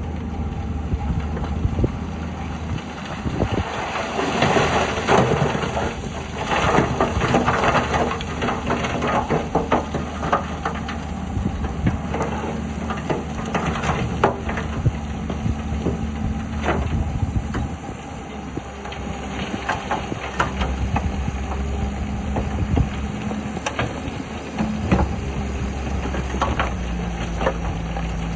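Heavy diesel earthmoving machinery, a bulldozer working fill, with the engine running steadily and its pitch shifting a few times. Many clanks and crunches, thickest in the first half, come from rock and track being worked.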